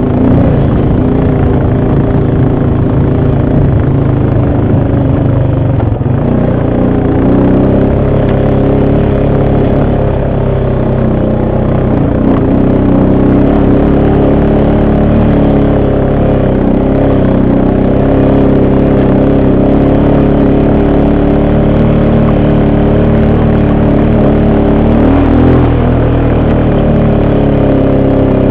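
ATV engine running loud and close through a ride, its pitch rising and falling a little with the throttle.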